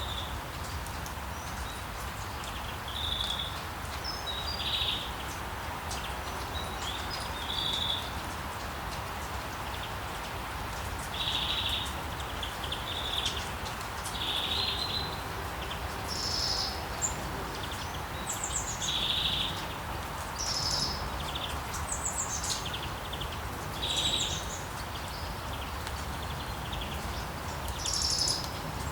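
Steady hiss of rain with birds chirping over it: short chirps every second or two, mixed with some higher, thinner calls.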